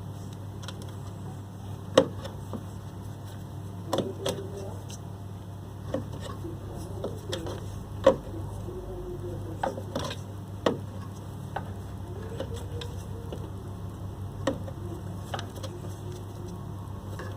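Scattered metal clinks and knocks from hand tools and copper refrigeration tubing being cut and handled, about a dozen, the loudest about two seconds in and about eight seconds in, over a steady low hum.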